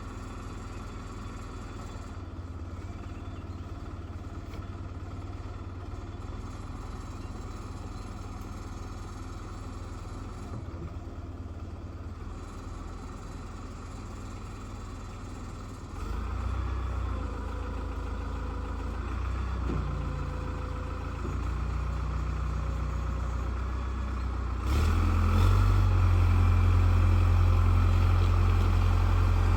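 Old tractor backhoe's engine running steadily, growing louder in two steps, about halfway through and again near the end.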